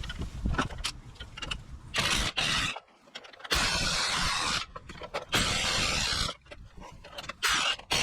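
A power tool, typical of an impact wrench or electric ratchet used on strut work, running in four short bursts of about a second each, with lighter mechanical clatter between them.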